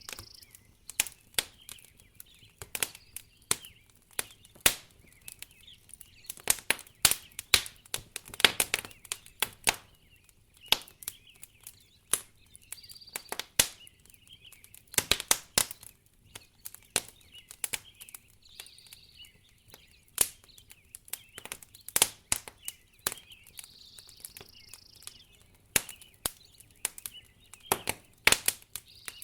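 Wood fire crackling in a fireplace: irregular sharp pops and snaps, some coming in quick clusters.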